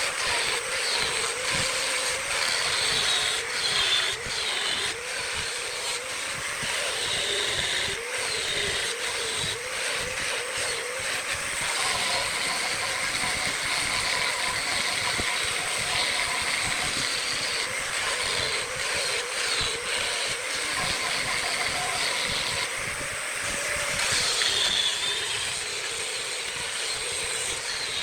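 Wood lathe running while a turning tool cuts the spinning wood: a steady scraping hiss with a wavering whine.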